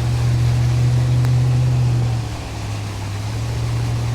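Boat motor running with a steady low hum, dropping in pitch and level about two seconds in as it is throttled back.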